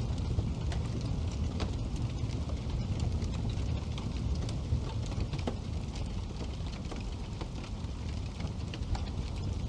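Wood fire burning in a fireplace: frequent small crackles and pops scattered irregularly over a steady low rumble of the flames.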